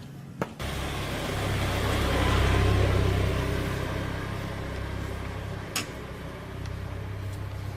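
An engine starts running abruptly about half a second in at a steady low pitch, swells in loudness and then eases back while still running. A sharp click comes a few seconds later.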